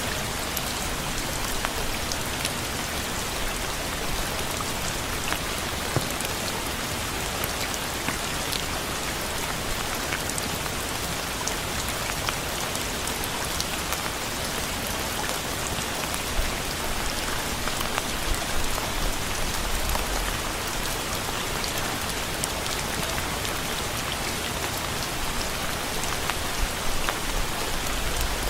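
Steady rain falling on a surface: a dense even hiss with many small drop patters scattered through it.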